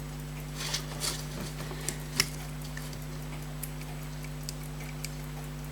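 Small sharp clicks and ticks from a pocket watch movement being worked on with tools. They come at uneven intervals, with a few louder clicks in the first two and a half seconds, over a steady low electrical hum.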